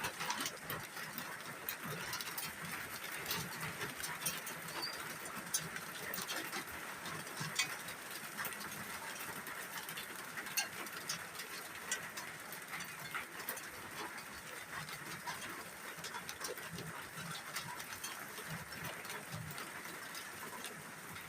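Steady rain falling, with scattered sharp ticks of drops pattering on nearby surfaces.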